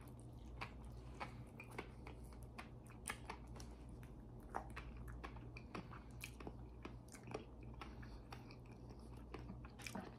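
Close-miked chewing of raw salmon sashimi dipped in masago (smelt roe), with many small wet mouth clicks and smacks. A low steady hum runs underneath.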